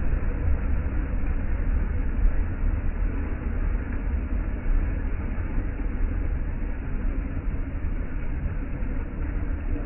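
Steady wind rumble on the microphone mixed with the wash of ocean surf, a heavy low rumble that never lets up.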